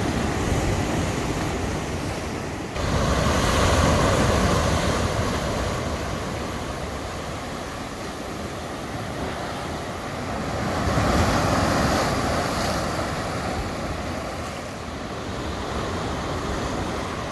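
Heavy surf, waves of about two metres breaking against rocks: a continuous wash of noise that surges up suddenly about three seconds in and swells again around eleven seconds.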